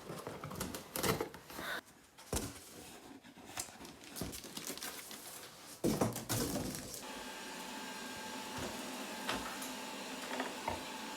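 Scattered knocks and clatter of a robot vacuum cleaner being handled and unpacked, then a steady mechanical hum from about seven seconds in.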